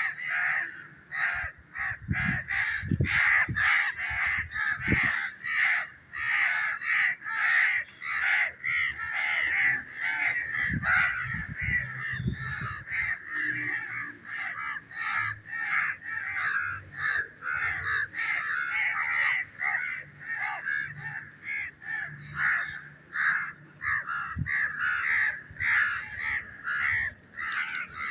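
Harsh bird calls repeated rapidly, several a second, without a break. A few low thuds come about 3 and 11 seconds in.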